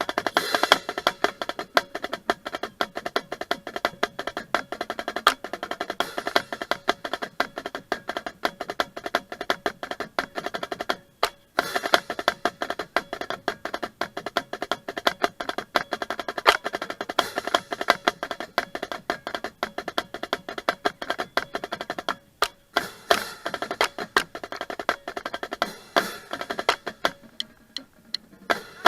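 Marching drumline playing: rapid, dense drum strokes with rolls and sharp rim-like clicks, breaking off briefly about 11 and 22 seconds in.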